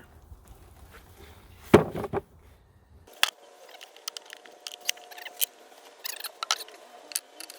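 Wooden beehive frames being knocked and pried loose: one sharp knock about two seconds in, then a run of scratchy clicks and scrapes as the outer frame is worked free. From about three seconds in, honeybees hum steadily underneath.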